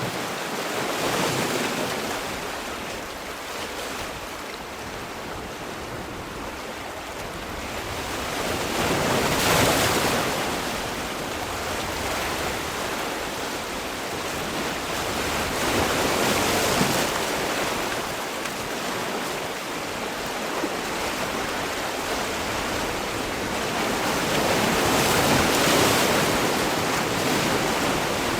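Sea waves breaking and washing on the shore, each swell of surf rising and falling away, about four waves over the stretch.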